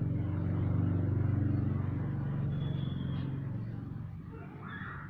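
A motor vehicle's engine running as it passes close by: a low hum that grows louder over the first couple of seconds and then fades away.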